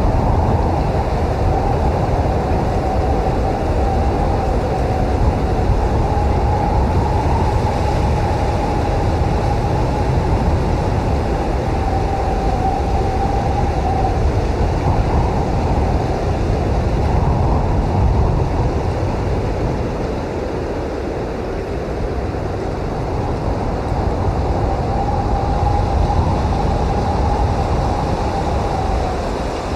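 Strong blizzard wind blowing steadily with a deep rumble, and a thin, wavering whistling howl over it that fades out about halfway through and returns near the end.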